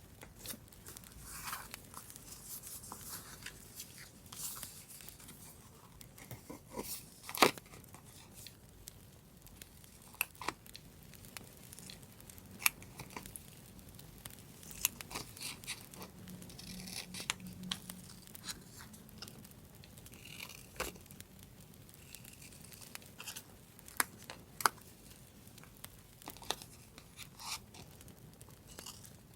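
Paper being handled for a vintage journal page: irregular crisp rustles, tearing and small taps, with scattered sharp clicks, the loudest about seven seconds in.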